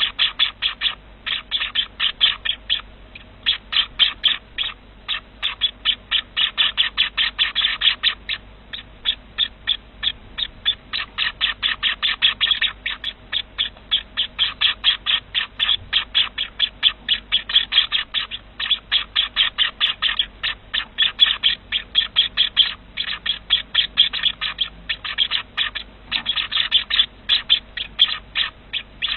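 Small ornamental cage birds chirping in fast, steady runs of short high chirps, about five a second, with brief pauses between runs.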